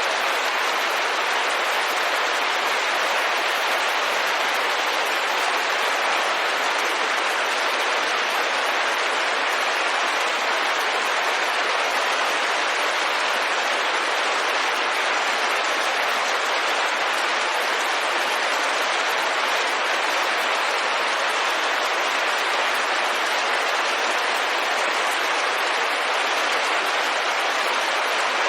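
Steady, dense rain falling on a window pane, an even hiss of many drops without breaks or changes.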